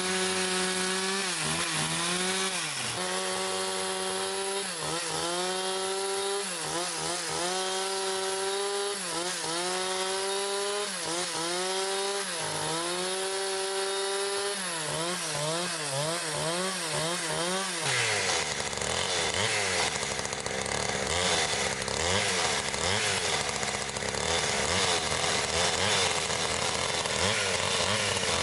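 Chainsaw cutting wood, its engine pitch dipping sharply and recovering every second or two as the chain bites. A little past halfway the sound turns rougher and noisier.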